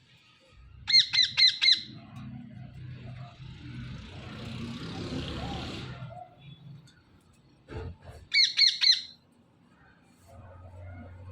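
Green parrots squawking: two short bursts of about five rapid, shrill calls each, several seconds apart, with a rustling noise between them and a single knock just before the second burst.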